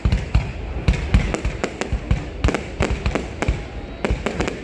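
Aerial fireworks going off in a rapid, irregular barrage of sharp bangs and deep booms, several a second.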